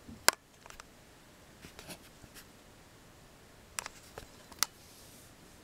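Several short, sharp clicks and taps in a quiet room: a loud click just after the start, a few faint taps around two seconds in, and two more sharp clicks near four seconds.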